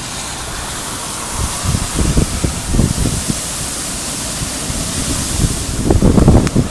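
Hurricane-force wind and rain rushing steadily, with strong gusts buffeting the microphone, heaviest near the end.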